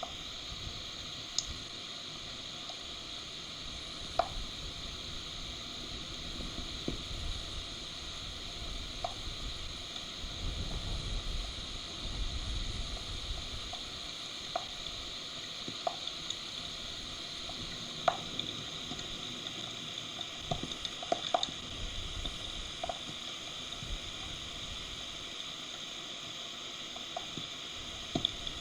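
Heavy rain falling steadily on the nest and the camera's microphone, a sizzling hiss with scattered sharp drips and taps, and a low rumble swelling for a few seconds around ten seconds in.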